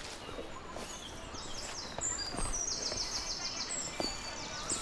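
Forest birds singing high, thin chirps, with a quick run of about eight even notes in a row around the middle. A few soft thuds are heard under the song.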